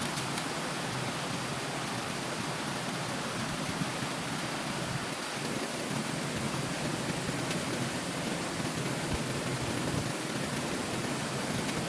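Stream water rushing steadily, an even hiss with no pauses.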